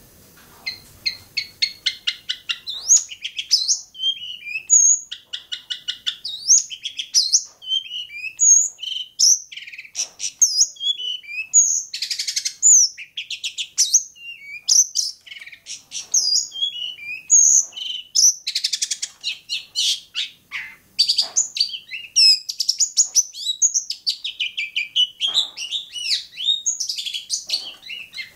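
Long-tailed shrike (cendet) singing a long, varied song of rapid rattling trills mixed with short whistled notes that slide up and down.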